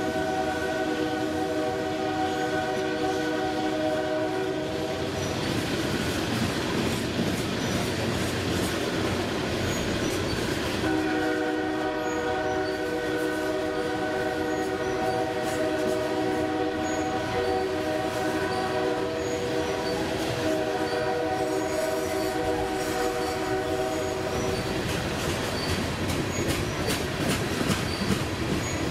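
Loaded coal train's open-top cars rolling past, wheels running steadily on the rails. A steady chord of high tones sounds over it for the first few seconds, then again from about a third of the way in until shortly before the end, with a brief break.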